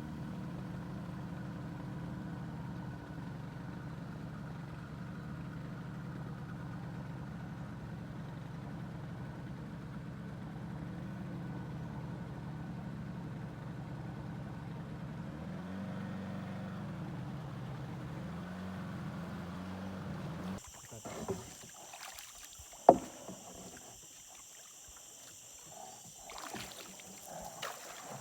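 Steady low drone of a boat under way on the river for most of the clip. Near the end it gives way abruptly to a quieter outdoor scene with a steady high whine and one sharp knock.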